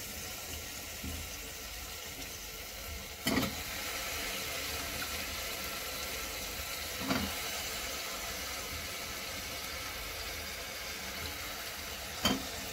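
Masala and oil sizzling steadily in an aluminium pressure cooker as whole small brinjals and potato pieces are dropped in. Three short thumps come as the vegetables land, about a third of the way in, past the middle, and near the end.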